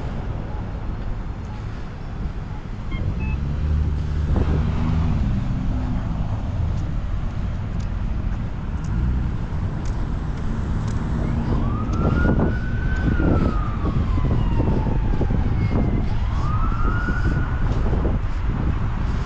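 An emergency vehicle siren wailing, two slow rising-and-falling wails in the second half, over the steady low rumble of a vehicle engine and road noise.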